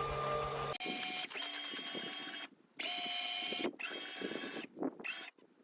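Electric motor whine from the truck camper's jacks lowering it onto pallets. A lower-pitched run stops just under a second in, then a higher whine starts and stops in four runs of about a second each.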